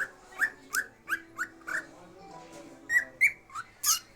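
Pet parrot making short, sharp, rising chirping calls: about six quick ones in the first two seconds, then a few louder, harsher calls near the end.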